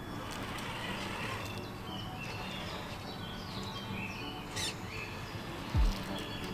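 Small birds chirping and calling in short notes over a steady background hiss, with a short low thump near the end.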